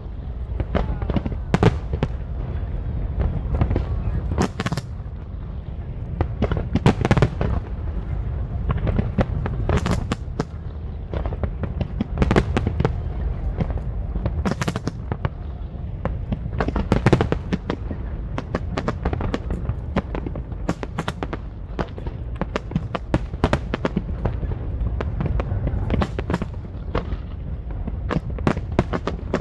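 Aerial fireworks display: a dense, irregular run of bangs and crackles, several every second, over a continuous low rumble.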